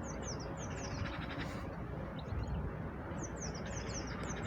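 A small songbird singing: two phrases of quick, high, falling chirps, one at the start and one about three seconds in, over a steady low rumble of station and train noise.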